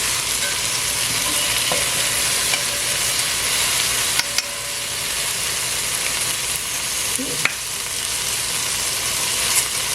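Sliced okra frying in vegetable oil in a pot, a steady sizzle, with a few sharp clicks.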